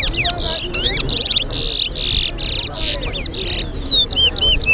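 Towa towa (seed finch) singing continuously in a competition song. It gives rapid buzzy trills mixed with quick slurred whistles that sweep up and down.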